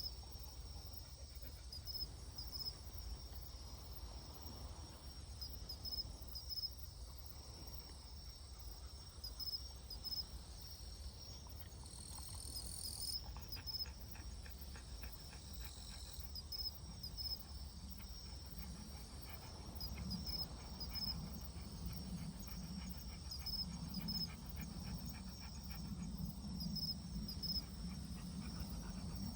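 Night insects chirping in short high calls repeated every few seconds over a steady low rumble. From a little past the middle, a dog pants close by in a quick, even rhythm.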